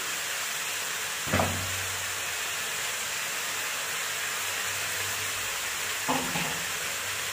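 Marinated chicken pieces and onions frying in a metal pot on a high flame: a steady sizzle. A short knock comes about a second in, and another near the end.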